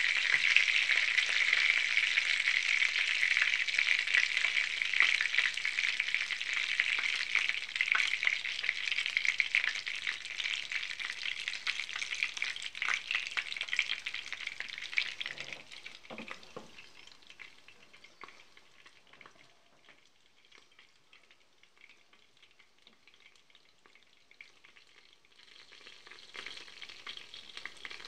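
Meat pirozhki frying in hot oil in a pan: a dense crackling sizzle that fades away about halfway through to near silence, then picks up faintly near the end.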